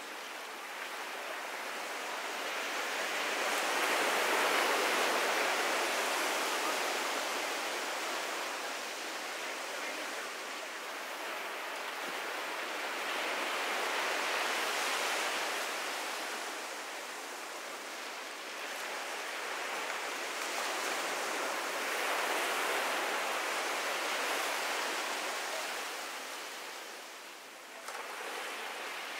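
Ocean surf breaking and washing up on a sandy beach. The wash swells and fades in slow surges several seconds apart.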